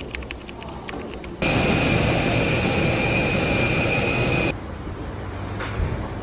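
Jet airliner engine noise, a steady rush with a high whine, that cuts in about a second in and stops abruptly about three seconds later, between stretches of quieter vehicle rumble.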